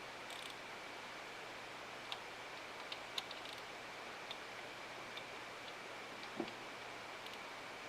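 Faint, irregular clicks and ticks of hand tools on metal as injector hardware on a 5.9 Cummins engine is worked on, over a steady low hiss; the loudest, duller click comes about six seconds in.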